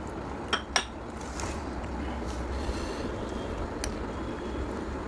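Cutlery clinking against a plate twice in quick succession, then once more a few seconds later, over a steady low rumble.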